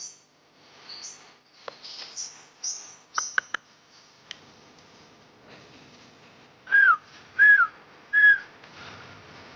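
Long-tailed shrike (cendet) singing: a run of quick high chirps and a few clicks, then three loud whistled notes, each slurring down in pitch.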